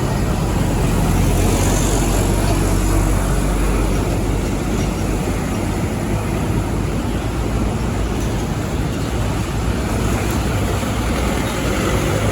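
Road traffic with heavy trucks passing close by: a steady low engine rumble and tyre noise, strongest in the first few seconds.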